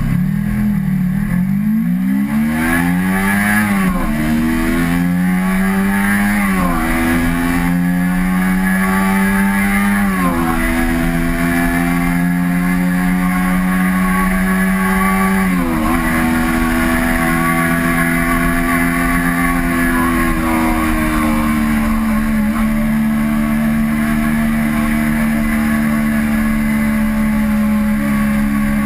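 Kawasaki Ninja 250R parallel-twin engine accelerating hard from low revs, its pitch climbing through the gears with four upshifts, each a sudden drop. After the last shift it settles to a steady cruise, easing slightly about twenty seconds in.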